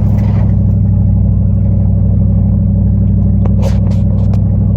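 Dodge Ram pickup's engine running steadily under load as it climbs a dirt trail, with a few short sharp clicks near the end.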